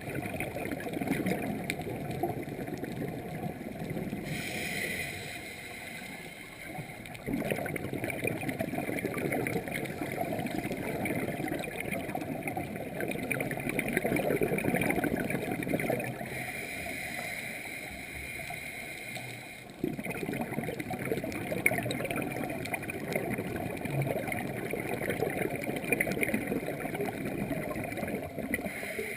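Scuba diver breathing through a regulator underwater: a hissing inhale twice, each followed by several seconds of bubbling exhaust.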